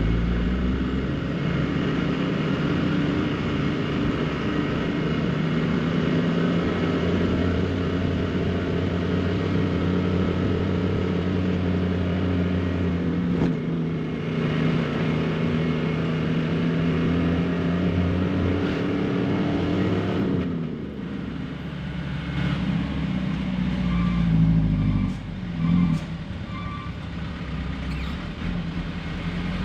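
Truck engine running steadily, its note slowly rising and falling, then easing off about two-thirds of the way through. A few short beeps sound near the end.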